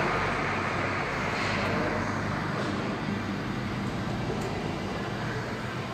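Car repair workshop ambience: a steady mechanical hum and noise with a few short faint clicks.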